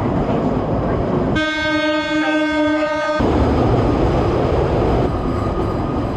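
Train running with a loud, steady rumble; about a second and a half in, its horn sounds one steady tone for about two seconds, then the rumble carries on alone.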